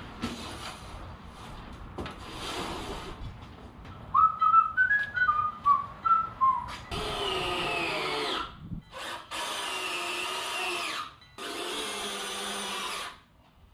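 A person whistles a short falling run of notes, then a power drill runs three times, about a second and a half each, driving screws into the wooden legs.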